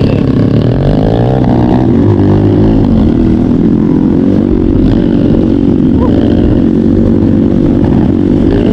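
Trail motorcycle engine running while ridden, its pitch rising and falling as the throttle changes.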